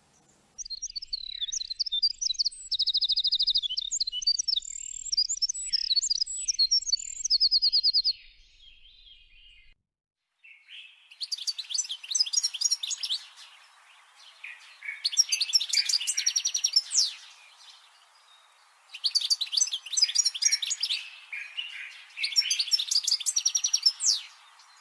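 Songbird singing a fast, high twittering song full of trills, which stops just before ten seconds in. Then a different bird's song begins, given in separate phrases of about two seconds every three to four seconds, over a faint steady hiss.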